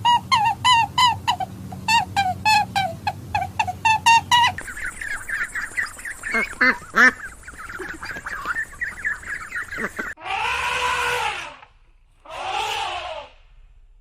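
Ducks quacking in quick repeated calls, about four or five a second, then a dense chorus of high peeping, then two long drawn-out calls near the end.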